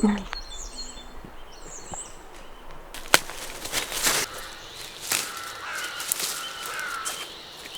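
Bush ambience with birds calling, including a wavering call about two-thirds of the way through, and a few sharp cracks scattered through it.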